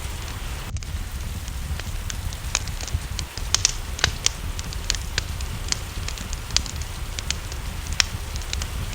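Wood fire crackling in a fireplace, with irregular sharp pops and snaps, over a steady rain hiss and a low rumble.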